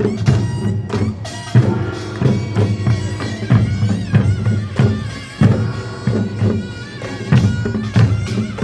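Korean nongak (Gyeongsang-do farmers' band music) playing: drums and small metal gongs strike a steady rhythm under the reedy, nasal melody of a taepyeongso shawm.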